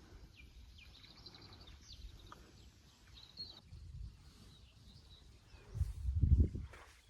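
Quiet outdoor ambience with a few short, high bird chirps, then a loud low rumble on the microphone lasting under a second, about six seconds in.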